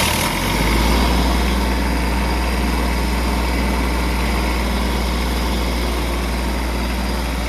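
Kubota D722 three-cylinder diesel of a Carrier Supra 850 reefer unit running steadily just after firing up, settling within the first second. The engine is being run hot after overheating, with circulation of its coolant in doubt.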